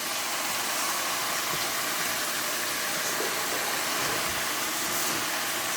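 Chicken sizzling in a hot pan, a steady hiss of frying.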